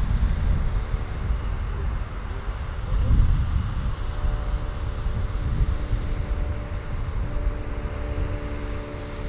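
Combine harvesters running in a corn field, a steady machine hum with several held tones, over heavy low rumble that swells briefly about three seconds in.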